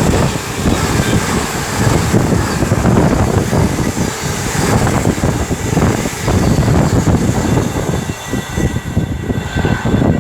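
DRS Class 68 diesel-electric locomotive passing with a freight train, its engine running loud under power together with the train's wheels on the rails. The high end thins out near the end as it draws away.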